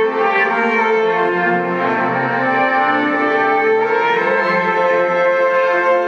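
Live music: layered, sustained violin lines built up with a loop pedal into held chords, the harmony shifting about four seconds in.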